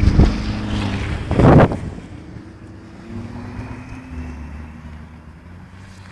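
A car engine revving as the car slides and pulls away across the lot, then fading as it drives off into the distance. There is a brief loud rush of noise about a second and a half in.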